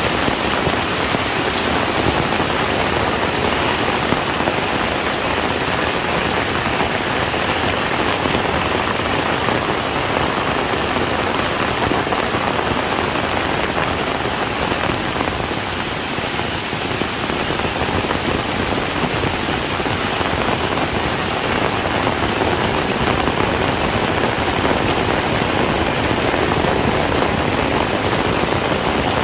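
Heavy rain falling steadily, a dense even patter with a brief slight lull about halfway through.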